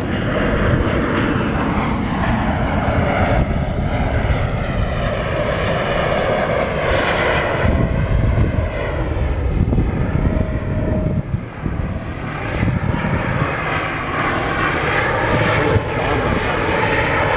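C-17 Globemaster III's four turbofan jet engines running loud in a low flypast: a heavy, steady jet rumble with a whooshing sound that wavers and sweeps up and down in pitch as the aircraft passes.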